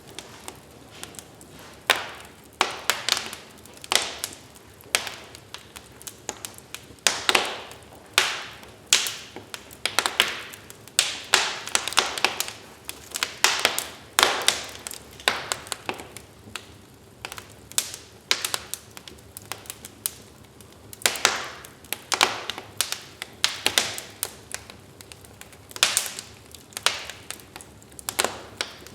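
Wood fire crackling in a fireplace: irregular sharp pops and snaps, several a second, over a low steady hiss of burning logs.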